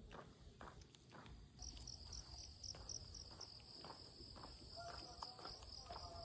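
Footsteps on a path, then about one and a half seconds in an insect starts a steady high-pitched trill that carries on. Everything is faint.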